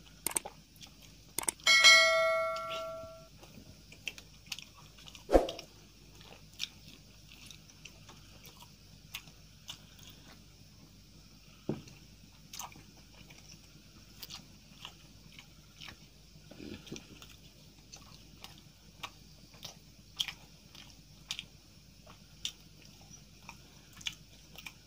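Close-up chewing and small wet mouth and hand noises of someone eating syrup-soaked rasgullas, with scattered light clicks and knocks. About two seconds in, a bright bell-like ding rings out and fades, the loudest sound here.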